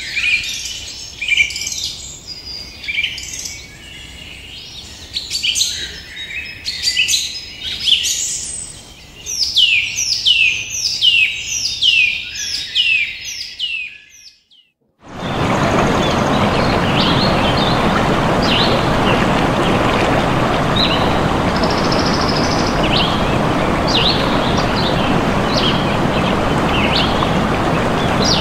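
Birds singing: a dense run of quick downward-sweeping chirps. About halfway through it breaks off for a second, then gives way to a steady rushing noise with faint bird chirps over it.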